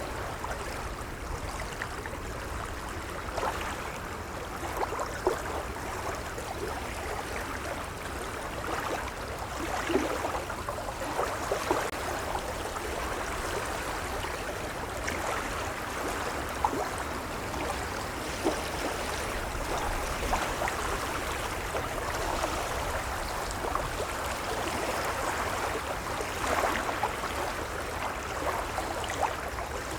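Gentle waves lapping, a steady wash of water full of small splashes and gurgles, with a low rumble underneath.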